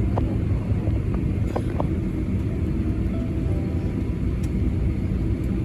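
Steady low rumble of a Boeing 747-400's engines and airframe heard inside the passenger cabin while the jet taxis, with a few faint clicks in the first two seconds.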